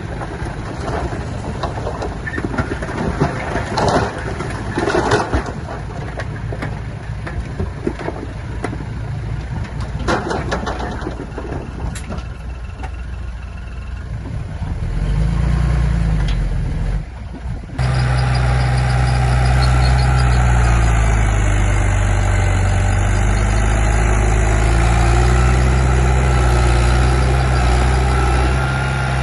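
Heavy diesel earth-moving machinery running, with repeated clanking and crunching over the engine in the first half. About eighteen seconds in, the sound changes abruptly to a louder, steady engine note whose pitch rises and falls slightly.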